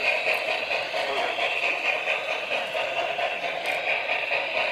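G-scale model train running along garden railroad track: a steady rolling hum and gear whine without a break.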